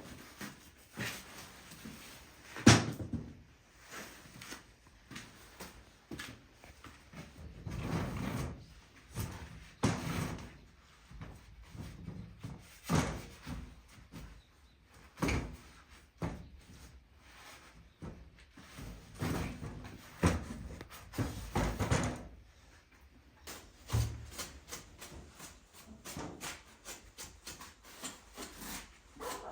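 Irregular wooden knocks, clunks and scraping as an old wooden-framed window is worked on to get its glass out, with a quick run of short taps near the end.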